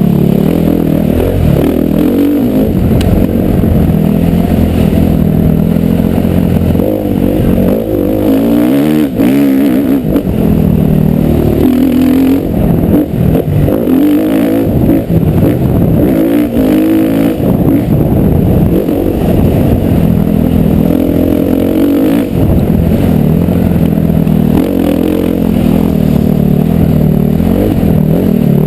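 Motocross bike engine revving hard and easing off again and again, its pitch climbing and dropping with throttle and gear changes.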